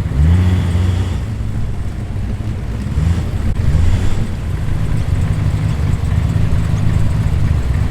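Muscle car engine running with a deep low rumble as it rolls in, its revs rising briefly just after the start and again about three seconds in, then settling to a steady low note.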